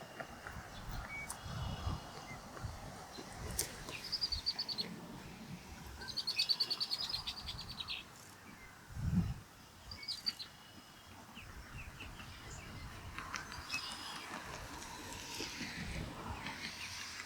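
Ospreys calling at the nest: several short runs of rapid, high chirps, with a low thud about nine seconds in.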